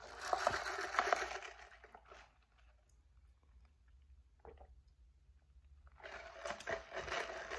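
Close-miked chewing and mouth sounds of someone eating a turkey sausage, egg and cheese croissant. Loudest in the first second or so, quiet through the middle, and building again near the end.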